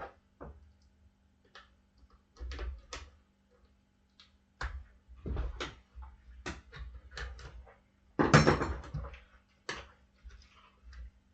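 Metal tire spoons knocking and clanking against a dirt bike rim while the tire bead is levered over it a little at a time, with a louder scraping clatter about eight seconds in.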